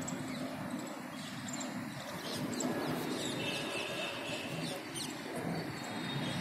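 Faint bird chirps, several short high calls mostly in the middle stretch, over steady open-air background noise with a low hum.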